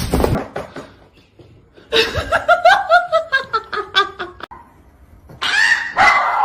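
A person laughing in a run of quick bursts, the pitch falling as it goes on, then a further burst of voice near the end.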